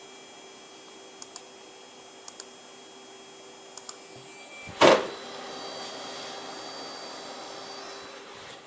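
Desktop PC running under game load with a steady whining hum and thin high-pitched tones, a few faint double ticks early on, and a single loud knock about five seconds in, after which a louder hissing whine with a higher tone goes on. This is the odd noise that appears only while a game runs, and the owner suspects either the graphics card or the hard drive.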